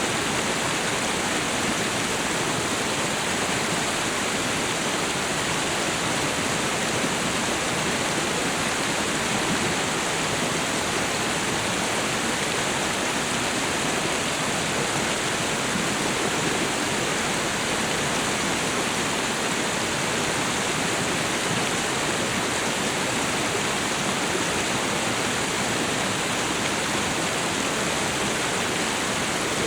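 Tropical waterfall and river: a steady, even rush of falling and flowing water with no breaks.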